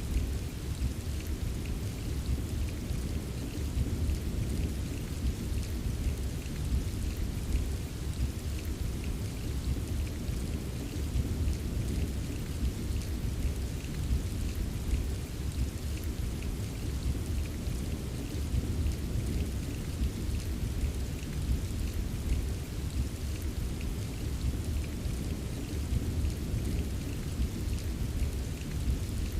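Steady rain falling, with faint scattered drop ticks over a continuous low rumble that does not swell or break into distinct claps.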